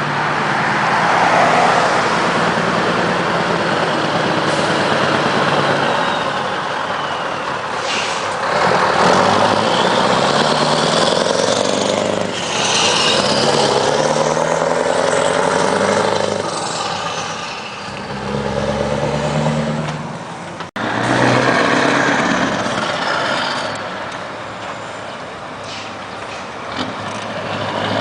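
Scania R500 V8 truck engine running, its pitch rising and falling as it revs and pulls, with one brief sudden break about three quarters of the way through.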